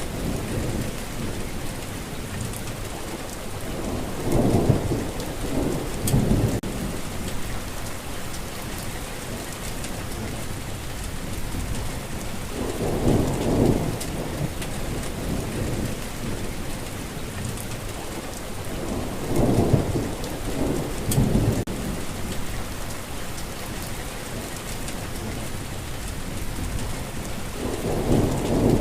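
Steady heavy rain hissing, with low rumbles of thunder swelling and fading about four times: a little after 4 s, around 13 s, around 20 s and again near the end.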